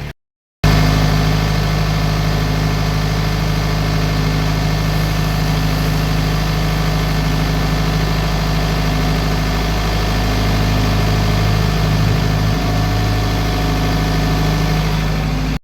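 Heavy vehicle engine running steadily at a constant speed, a loud low drone that cuts in about half a second in.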